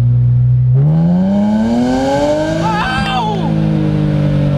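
1998 BMW M Roadster's dual-VANOS straight-six engine under hard acceleration: the revs climb steadily for about two seconds, then drop at an upshift about three seconds in and carry on pulling at lower revs.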